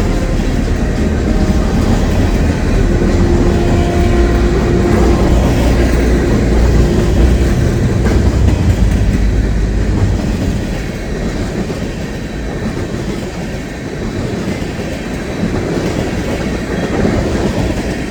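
A train passing close by, its wheels clattering over the rail joints with a heavy rumble, loudest through the first half and then easing off a little.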